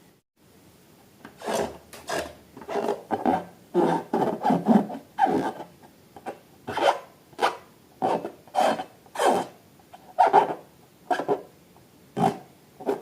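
A series of short rubbing strokes, about a dozen, starting a second or so in, each lasting under half a second with a rasping, squeaky texture.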